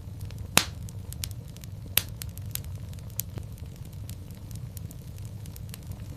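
Wood fire in a fireplace crackling: a steady low rumble of flames with frequent small snaps, and two louder pops, about half a second in and about two seconds in.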